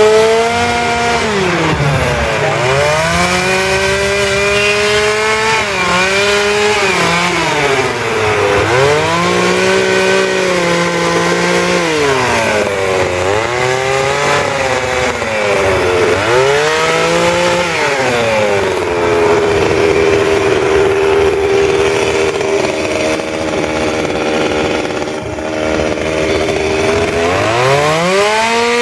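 Petrol chainsaw carving wood, its engine speed repeatedly dropping and rising again as the throttle is worked and the chain cuts. For several seconds past the middle it runs at a steady speed.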